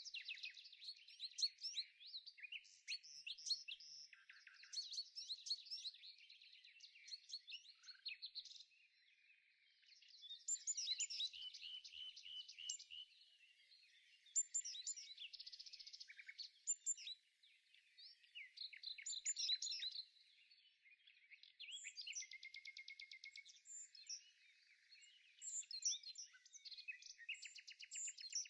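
Small songbirds chirping and trilling in quick runs of notes, phrase after phrase with short pauses between.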